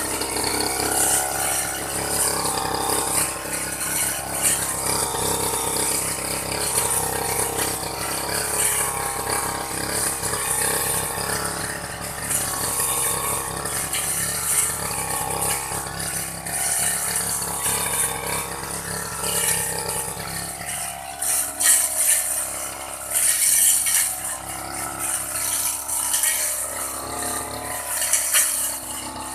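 Old grass-cutting machine running and cutting grass, with a continuous rattling, clicking mechanical sound.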